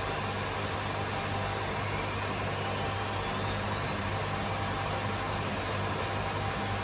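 Hotpoint Aquarius WMA37 and WMA48 washing machines running their spin cycles together: a steady rush of drum and motor noise with a low hum, and a faint whine that rises in pitch from about two seconds in.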